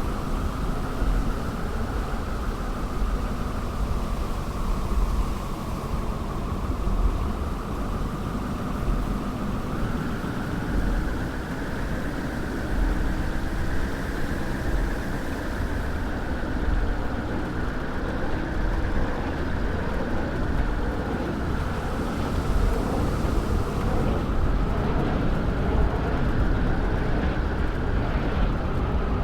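Car driving: a steady mix of engine and road noise.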